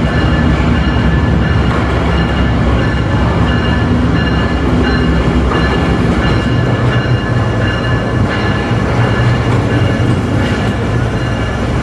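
Diesel train running steadily: a loud, continuous low engine drone with faint steady high tones over it.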